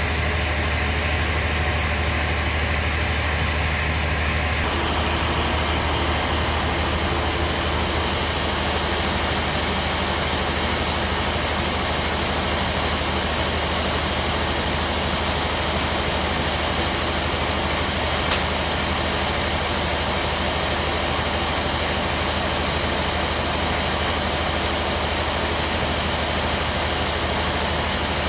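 Bandsaw sawmill running steadily, its tone changing abruptly about five seconds in, with one sharp click about two-thirds of the way through.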